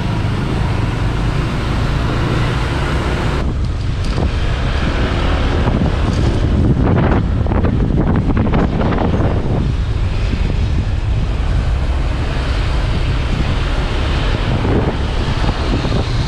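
Wind buffeting the microphone of a moving motorbike, over road and traffic noise; the rush swells for a few seconds midway.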